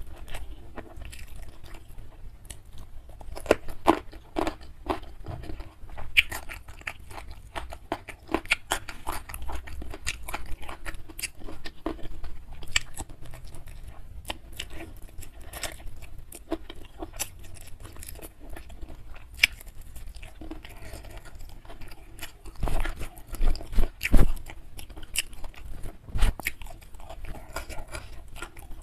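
Close-up chewing of a mouthful of rice and grilled fish eaten by hand: wet mouth clicks and soft crunches. A few louder crunches come about three quarters of the way through.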